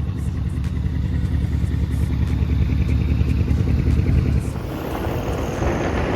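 Mercedes engine with an aftermarket twin-turbo setup running hard while the car is driven, growing louder over the first four seconds. Near the end the engine note eases and a rising rush of wind noise takes over.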